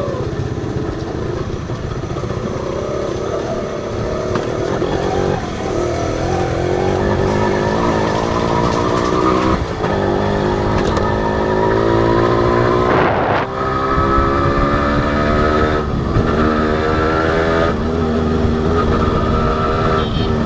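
Honda CDI H100S two-stroke single-cylinder motorcycle engine running under way. Its revs climb and break off several times, as it does when shifting up through the gears.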